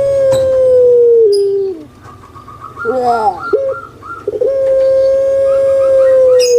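Puter pelung dove calling: a long, held coo that steps down in pitch and ends about two seconds in, then a short run of falling opening notes and a second long coo held through to the end. Faint quick higher chirps, like a small bird, sound between and under the coos.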